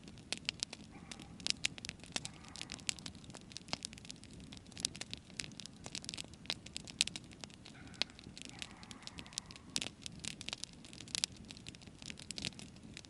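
Wood campfire burning, crackling with many sharp, irregular pops and snaps over a steady low rush of flame.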